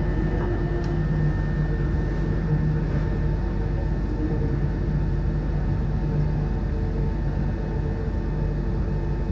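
Electric passenger train running, heard from inside the carriage: a steady rumble of wheels on the track with a steady low hum.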